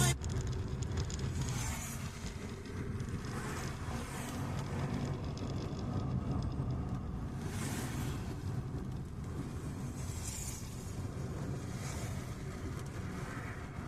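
Car on a wet road in the rain: a steady low engine and road rumble, with a swell of tyre hiss every few seconds.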